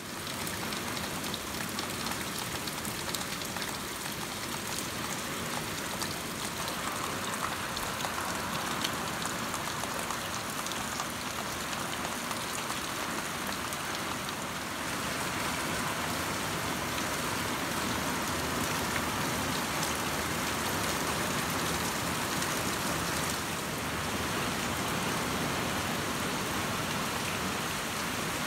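Steady storm rain falling on leafy trees and a lawn: an even hiss full of fine drop ticks, growing a little louder about halfway through.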